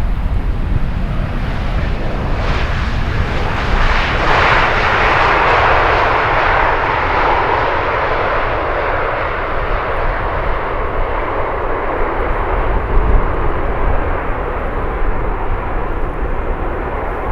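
Jet airliner engines running as the aircraft passes, a broad rushing noise over a deep rumble. It swells about four seconds in and then slowly fades.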